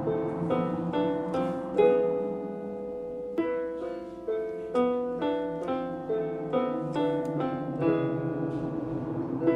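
Keyboard music: a melody of single struck notes, about two a second, over a low sustained line, pausing on a held chord near the middle.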